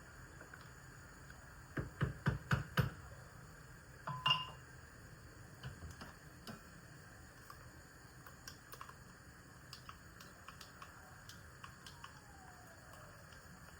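Kitchen handling sounds: a quick run of five knocks about two seconds in, a louder clink that rings briefly just after four seconds, then scattered light clicks and taps.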